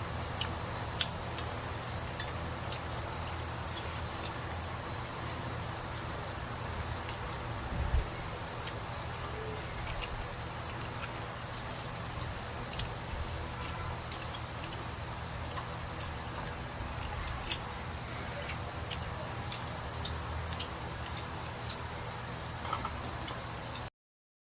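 Steady high-pitched chirring of crickets, with a few faint clicks and a single low thump about eight seconds in. The sound cuts off abruptly near the end.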